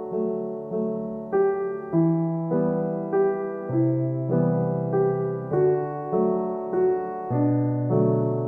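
Background music: a gentle solo piano piece, notes struck at an even, unhurried pace.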